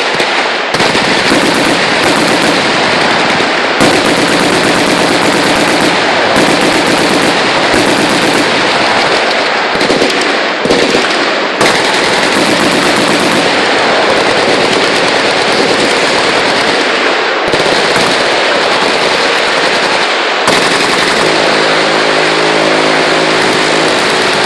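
Machine-gun fire going almost nonstop, bursts overlapping into a continuous rattle with only brief breaks. A steady droning hum joins in over the last few seconds.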